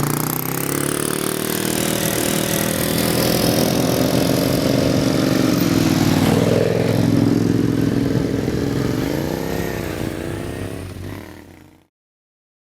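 Motorcycle engine running as the bike rides a slalom, its pitch rising and falling with small throttle changes, then fading out near the end.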